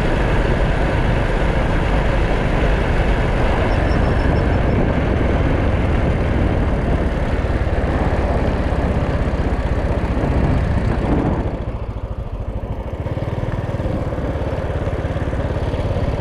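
Motorcycle engine running while riding, mixed with wind noise on the camera microphone. About eleven seconds in, the higher hiss drops away and the sound eases for a second or two, then picks up again.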